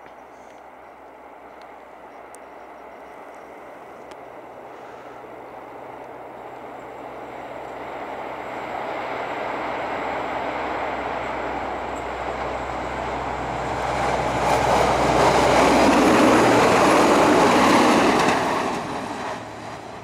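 SA133 diesel railcar approaching on the track and passing: its engine and wheel rumble grows steadily, is loudest for a few seconds near the end, then drops away quickly as it goes past.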